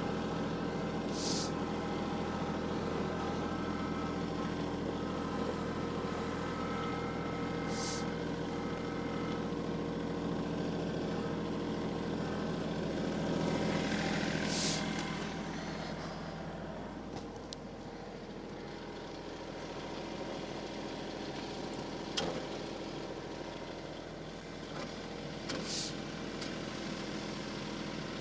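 An engine running steadily, a little quieter from about halfway through, with a few short hissing sounds over it.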